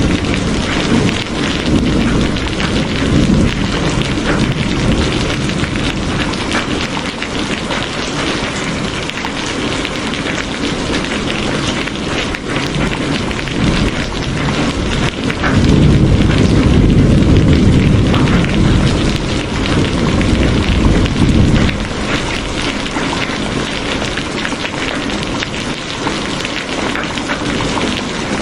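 Steady rain pattering down, with low rolling rumbles of thunder that swell in the first few seconds and again for several seconds just past the middle.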